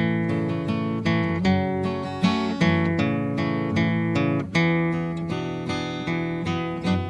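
Background music: acoustic guitar picking and strumming at a steady pace.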